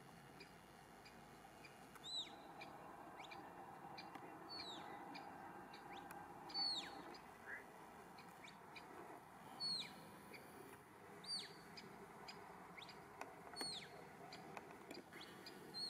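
A bird repeating a short, steeply falling high call about every two seconds, over faint outdoor background.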